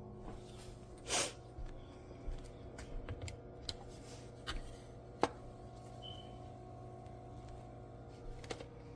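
Scattered light clicks and taps, with a short rustle about a second in, over a steady low hum. A brief faint high tone comes about six seconds in.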